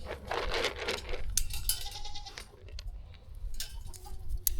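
Goats bleating: a long bleat in the first second, then shorter, fainter calls, with a few sharp knocks.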